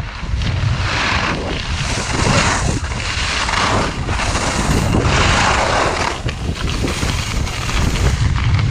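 Wind buffeting the microphone with a heavy low rumble, over skis scraping across snow in repeated swells of hiss, one after another every second or so as the skier turns downhill.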